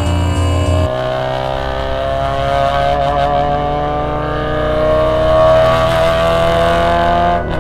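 Honda Civic EG6's four-cylinder engine accelerating under load, its pitch rising steadily for about six seconds from about a second in, then falling away shortly before the end.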